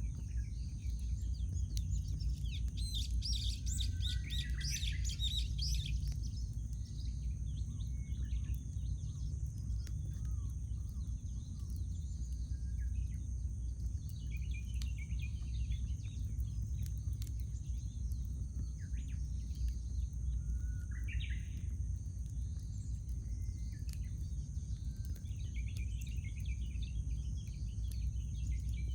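Wild birds calling and singing in several bursts, the busiest a dense run of calls a few seconds in, over the scattered crackle of a wood campfire and a steady low rumble.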